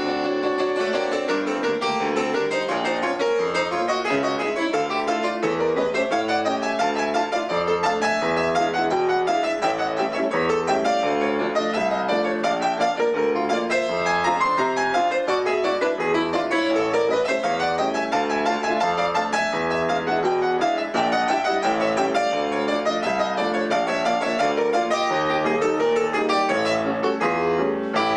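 Two instruments playing a lively duet, with a fast melody rising and falling over steady lower notes, continuous throughout.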